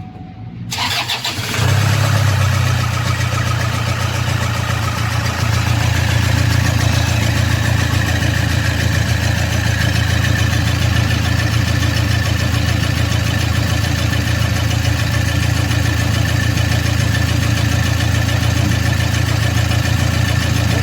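Diesel engine starting about a second in, then running steadily at idle.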